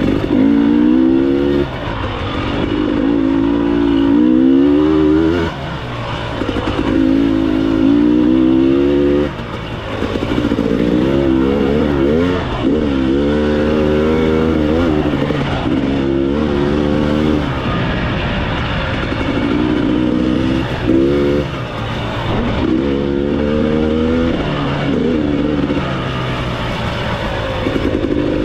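Enduro motorcycle engine under way off-road, revving up and dropping back over and over as the throttle is opened and closed, with wind noise over it.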